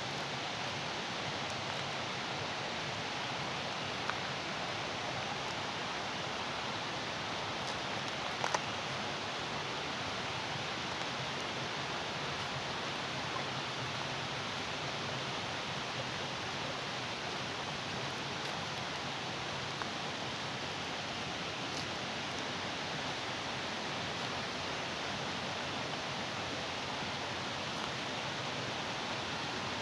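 Steady rush of running water, even and unbroken, with a few faint clicks.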